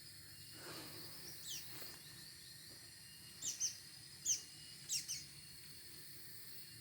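A small bird giving sharp, high, falling chirps: a faint one about a second and a half in, then five louder ones in quick pairs and a single between about three and a half and five seconds in, over a faint steady high tone in the background.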